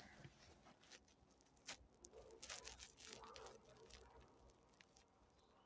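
Near silence: room tone with a few faint clicks and rustles, one about a third of the way in and a short cluster just past the middle.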